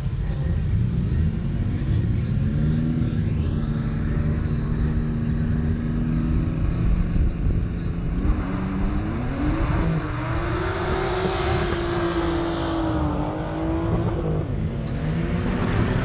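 Drag-racing cars' engines held at steady revs on the start line, then launching about eight seconds in. The engine note rises and steps through gear changes as they accelerate away down the strip.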